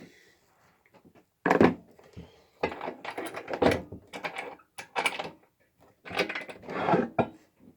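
Knocks and clatter of objects being handled and set down, in several bursts with short quiet gaps between them.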